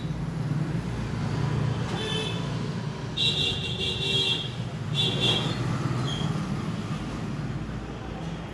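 Road traffic running steadily, with vehicle horns honking several times: a short toot about two seconds in, a longer honk around the middle, and another short one just after.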